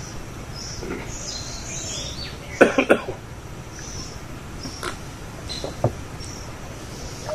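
Small birds chirping over and over in the background, with a short, loud burst of sound about two and a half seconds in.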